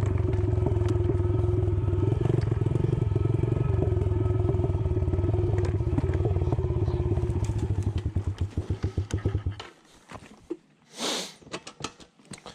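Small single-cylinder Yamaha TT-R110 dirt bike engine running steadily, then stumbling into slower and slower separate firing pulses and stalling about ten seconds in. It is dying because it is too cold to run without the choke. A short hiss and a few clicks follow after it stops.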